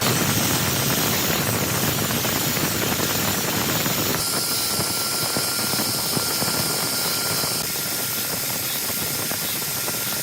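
A woodworking power tool running steadily, its pitch shifting slightly about four seconds in.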